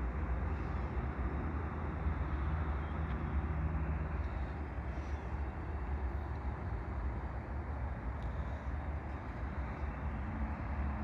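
CSX diesel-electric freight locomotives running while stopped: a steady, unbroken low rumble with no change in pitch. The sound is of a train getting ready to move.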